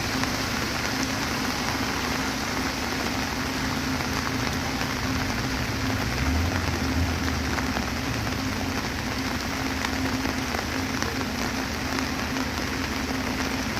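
A vehicle engine running with a steady low hum, swelling briefly about halfway through, under a constant hiss like rain or tyres on wet gravel.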